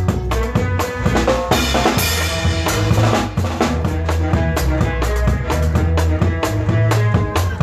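Regional Mexican conjunto band playing an instrumental passage: a drum kit keeps a steady beat under bass and sustained melody lines, with a cymbal crash about two seconds in.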